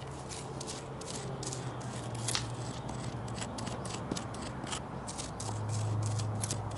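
Hand tool gouging and scraping charred wood: a rapid, irregular run of sharp scrapes and clicks over a steady low hum.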